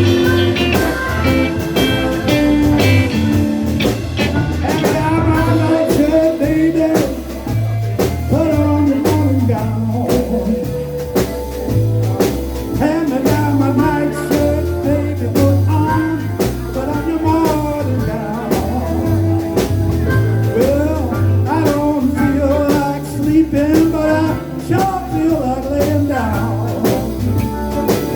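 Live band playing a blues-rock number, with a bass line, steady drums, and a lead line that bends up and down in pitch.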